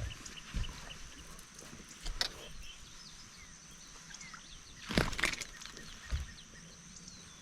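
Outdoor lakeside ambience with small birds chirping over a steady high whine, a few soft thuds, and one sharper knock on the boat about five seconds in.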